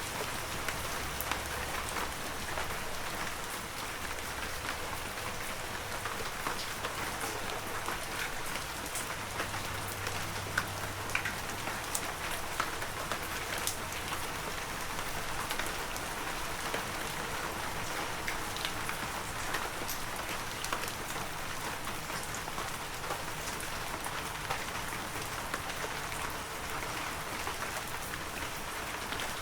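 Heavy rain falling steadily, a dense even hiss with many separate drops ticking through it.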